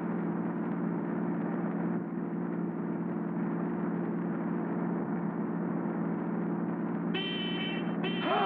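Cartoon car engine sound effect: a steady droning hum. About seven seconds in, a higher held tone joins it.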